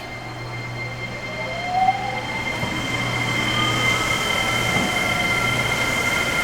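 Seibu 8500 series Leo Liner's Hitachi IGBT-VVVF inverter whining as the train accelerates: steady high tones with a second tone gliding up in pitch from about a second in, growing louder.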